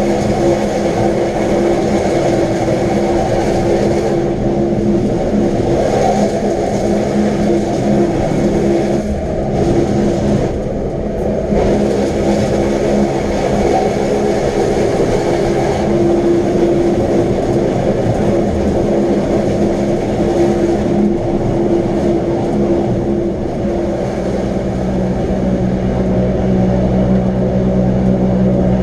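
Wengernalpbahn electric rack-railway train running steadily: a continuous rumble with a steady motor hum. A deeper rumble builds in the last few seconds.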